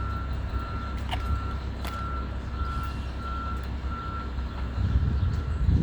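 A vehicle's reversing alarm beeping steadily, a single tone about one and a half times a second, over a low rumble. The beeping stops about four seconds in, and the rumble grows louder near the end.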